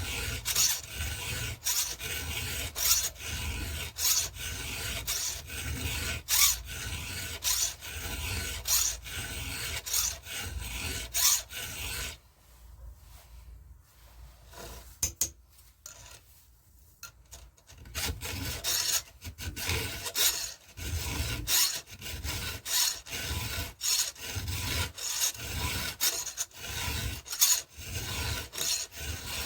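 Hand file rasping across the cutters of a Stihl MS 170 chainsaw chain in quick, even strokes, about two a second, as the chain is sharpened. The strokes stop for several seconds around the middle, with a couple of light clicks, then start again.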